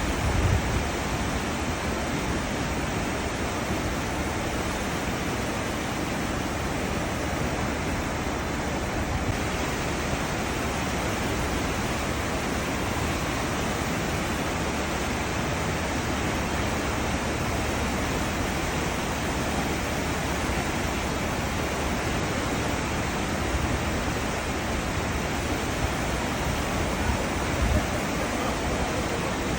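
Cruise ship's wake: churning seawater rushing steadily behind the ship, with a low rumble underneath.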